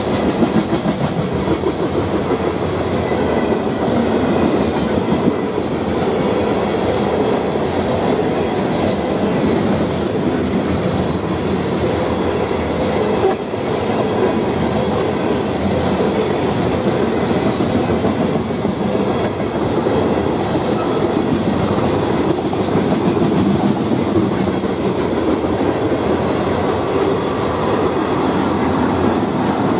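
Freight train of tank cars rolling steadily past, steel wheels clattering over the rails.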